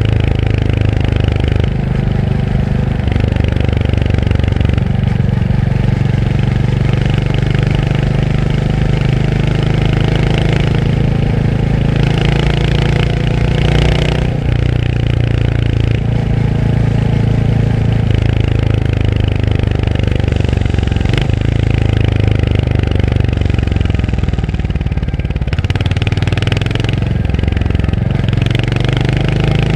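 Royal Enfield Hunter 350's single-cylinder engine running under way, with its note climbing over several seconds and dropping back a few times as the revs change.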